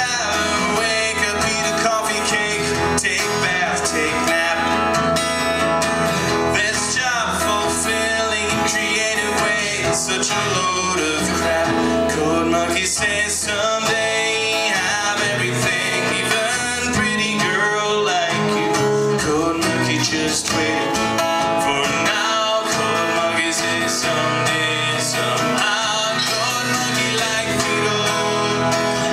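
Live band music led by guitar, playing an instrumental passage with no lead vocal, heard from the back of the room.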